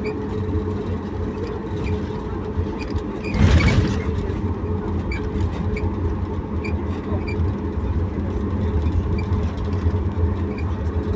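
Boeing 737 MAX 8's CFM LEAP-1B jet engines heard from inside the cabin during takeoff: a loud, steady rumble with a steady engine tone. A short loud whoosh or thump comes about three and a half seconds in.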